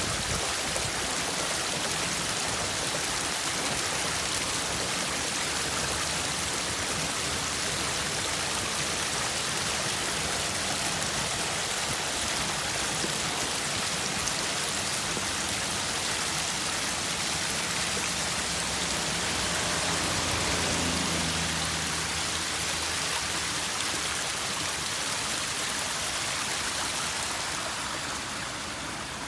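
Rainwater running down a flight of steps like a small waterfall, a steady rushing splash with light rain falling. A low hum swells and fades about two-thirds of the way through, and the water gets a little quieter near the end.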